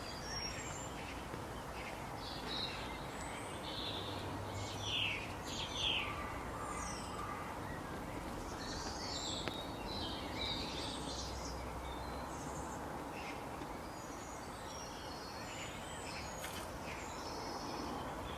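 Several birds chirping and calling in short, scattered notes over a steady background hiss of outdoor ambience.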